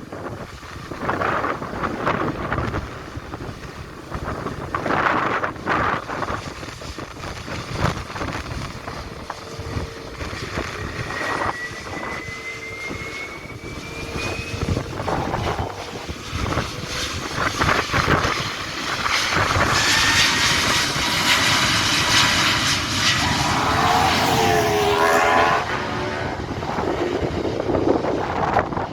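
Airbus A320 jet engines at takeoff power, growing louder with a high whine about two-thirds of the way through, then dropping in pitch as the airliner passes and fading near the end. Strong gusting wind buffets the microphone throughout.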